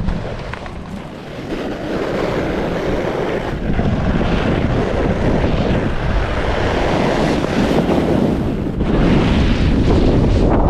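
Strong gusting wind buffeting the microphone of the kiter's camera: a dense, rough rush with no pitch, getting louder about two seconds in and again near the end, with brief lulls.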